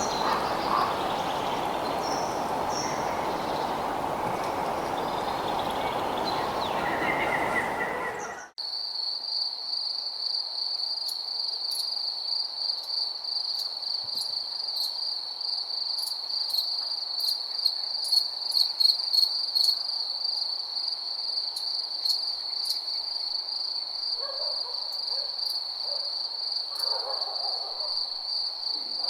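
A dense, noisy outdoor ambience for about the first eight seconds, then an abrupt cut to a night chorus of crickets: one steady high trill with scattered sharp clicks above it. A few fainter, lower calls come in near the end.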